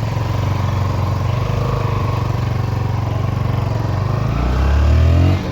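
Motorcycle engine running as the bike rides off. Near the end the engine note drops lower and grows louder for about a second, then falls away suddenly.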